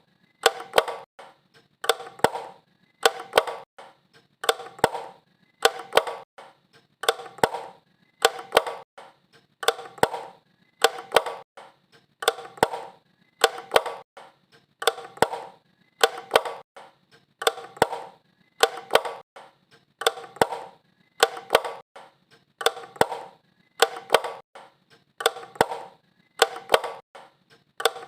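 Wall light switch flicked on and off over and over: a pair of sharp clicks about every second and a half.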